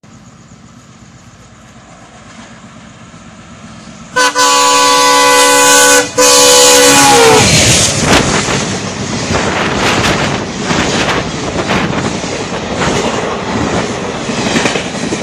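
WDM3A diesel locomotive hauling an express train approaches with a low rumble and sounds its multi-tone horn for about three seconds, broken once briefly, the pitch sagging as it reaches the microphone. The locomotive and coaches then rush past loudly, wheels clattering over the rail joints.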